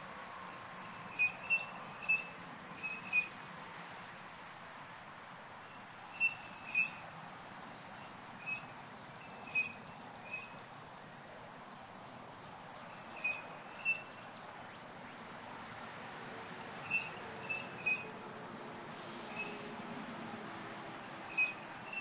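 Unidentified bird giving short, high, shrill whistle-like call notes, singly or in quick runs of two or three, every few seconds.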